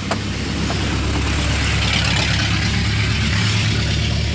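A motor vehicle engine running at a steady idle, with a brief click just at the start.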